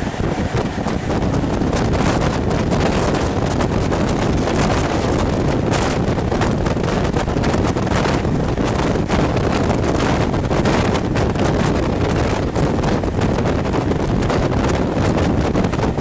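Wind buffeting a microphone held out of the window of a moving passenger train, over the train's running noise; loud and steady.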